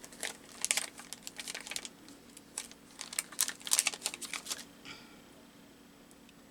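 Paper and small craft pieces handled on a work table: light clicks, taps and rustles in two short runs, then quiet, over a faint steady hum.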